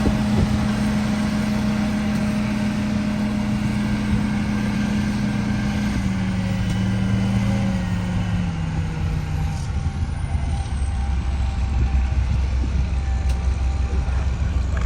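Sakai road roller's diesel engine running steadily. Its note steps down in pitch about six to nine seconds in, and then settles into a deep low rumble.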